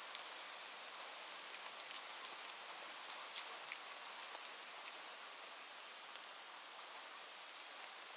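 Steady rain: an even hiss of falling rain with scattered sharp ticks of individual drops, fewer in the second half.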